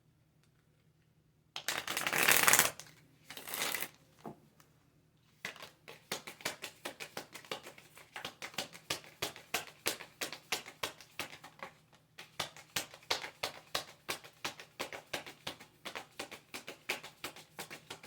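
A deck of oracle cards being shuffled: a couple of loud rustling swishes early on, then a long run of quick card flicks, several a second, briefly pausing partway through.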